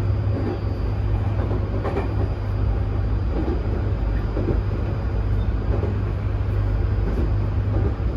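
Tokyu 2020 series electric train running, heard from inside the car: a steady low rumble from wheels and running gear with a faint high steady whine above it and a few light knocks.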